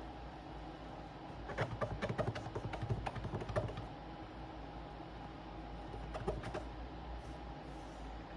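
A quick run of light clicks and taps from small hand tools or parts being handled, lasting about two seconds, with a few more taps later, over a steady faint hum.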